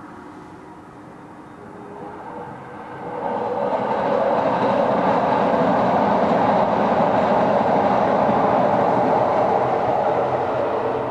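A large vehicle passing close by: a steady noise that swells about three seconds in to a loud, sustained level, then starts to ease near the end.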